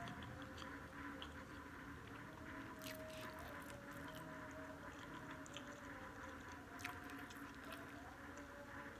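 Faint mouth sounds of someone chewing spicy instant fried noodles, with soft scattered clicks and a couple of sharper ones, over a steady faint hum.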